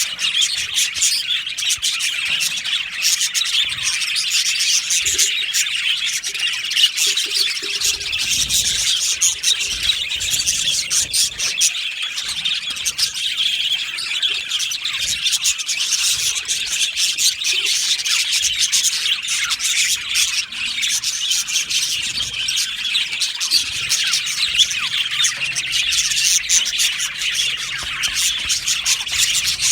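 Many budgerigars chirping and chattering at once, a steady unbroken warble of overlapping chirps with occasional squawks.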